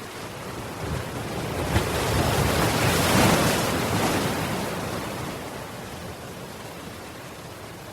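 Ocean waves: one wave swells up and breaks, peaking about three seconds in, then washes back and dies away into a steady surf hiss.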